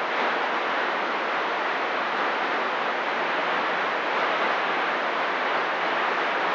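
CB radio receiver hissing steadily with static while no one is transmitting on the channel.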